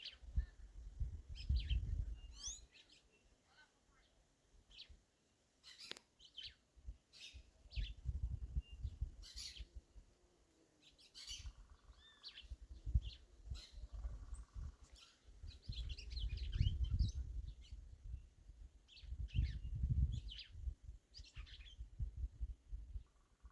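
Several wild birds chirping, with many short, high calls and quick slurred notes scattered through, over a low rumble that comes and goes.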